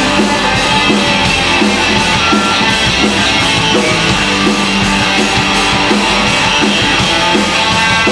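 Rock band playing an instrumental passage: distorted electric guitar over bass and drum kit, with a steady beat and no singing.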